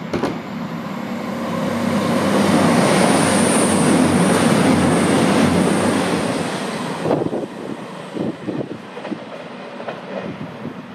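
CrossCountry Voyager diesel multiple unit passing through the platform at speed. Its noise swells to a loud peak midway and drops away sharply about seven seconds in, followed by a few scattered clacks as it clears.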